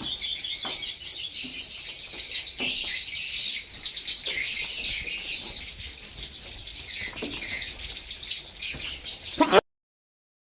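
Dense chorus of many swiftlets chirping and twittering inside a swiftlet nesting house, with scattered short clicks. It cuts off suddenly near the end.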